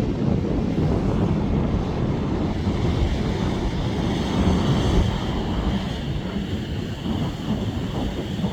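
Strong gale-force wind buffeting the microphone in a dense low rumble, over the steady rush of heavy surf.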